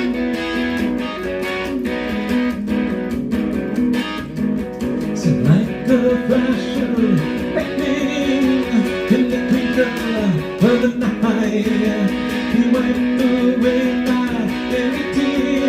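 Guitar strummed as song accompaniment, with a voice singing a melody over it from about five seconds in.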